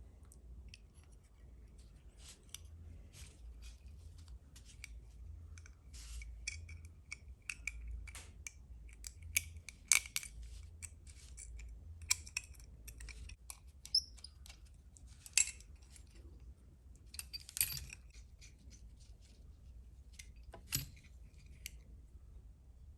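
Light clicks and taps of small parts and tools being handled during assembly of a model excavator kit, irregular throughout with a few sharper clicks, over a faint low hum.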